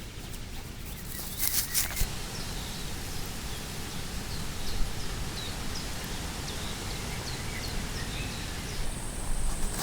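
A small bird chirping in short repeated calls over a steady outdoor background hiss, with a brief rustle of movement about a second and a half in.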